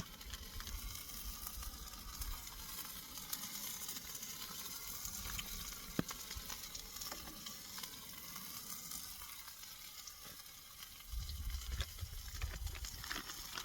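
Chicken pieces sizzling as they fry in oil in a pan on a backpacking stove, a steady hiss, with a single sharp click about six seconds in and a brief low rumble near the end.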